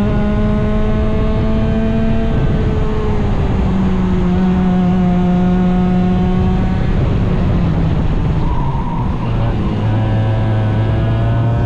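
Small 100cc racing engine running hard at high revs over a steady rush of noise. Its pitch holds for several seconds, eases down about eight seconds in as the throttle comes off, and starts climbing again near the end.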